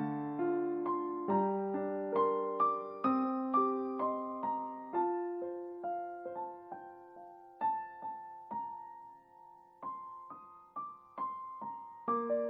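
Background music: a soft piano piece of single struck notes that ring and fade, thinning out around the middle and picking up again near the end.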